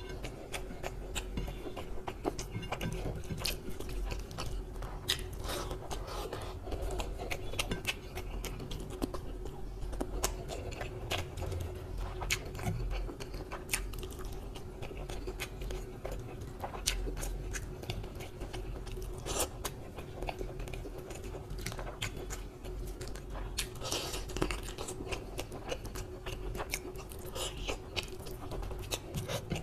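Close-up chewing and biting as a man eats a curried chicken leg and rice by hand, with many short, irregular wet mouth clicks.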